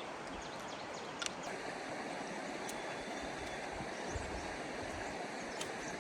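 Steady rushing of fast-flowing flood water, with a few faint high chirps over it.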